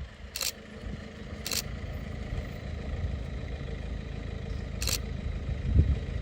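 Safari vehicle's engine running with a steady low rumble. Three short, sharp clicks come about half a second, one and a half seconds and five seconds in.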